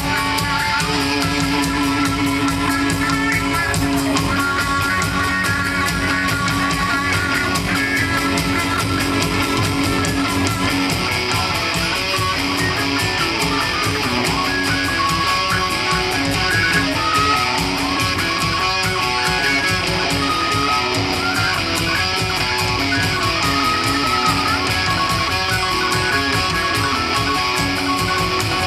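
A live band playing an instrumental passage, with no singing.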